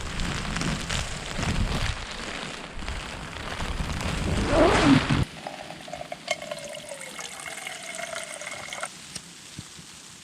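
Tarptent Scarp 1 tent door being closed: nylon fabric rustling and buffeting for about five seconds, then the door zip drawn shut with a buzzing rasp that slowly drops in pitch for a couple of seconds.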